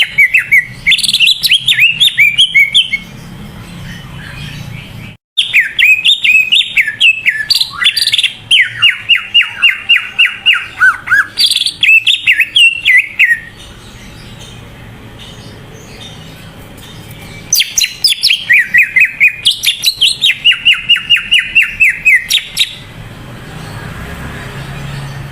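Cucak ijo (green leafbird) singing in three loud outbursts of fast, repeated whistled notes, each run stepping down in pitch, with pauses of a few seconds between them.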